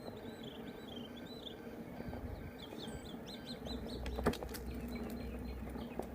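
Birds chirping in quick runs of short high notes, over a steady low hum, with a sharp click about four seconds in.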